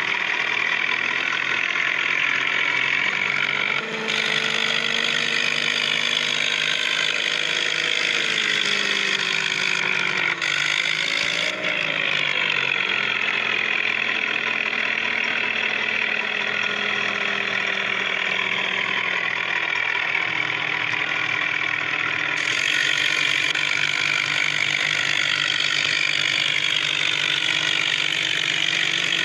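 A motor vehicle engine running under varying load, its pitch slowly rising and falling, with a few abrupt jumps in the sound.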